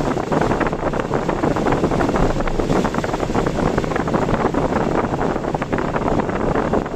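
Typhoon wind and heavy rain heard from a moving car: a steady rush peppered with dense small taps, mixed with the car's road noise.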